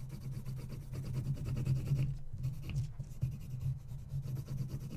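Colored pencil scribbling back and forth on paper, shading in an area with an irregular scratchy rasp, over a steady low hum.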